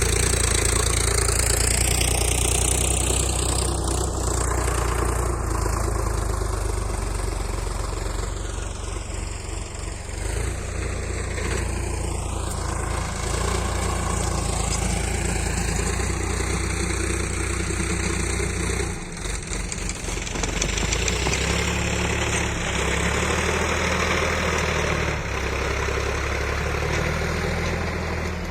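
Sonalika Sikander tractor's diesel engine running steadily, with a brief dip about two-thirds of the way through.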